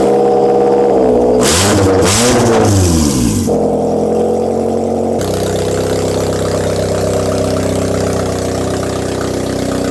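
Toyota Camry engine running with its catalytic converter removed (decatted) for a louder exhaust. It is revved up and down twice about two seconds in, then drops back and settles into a steady idle.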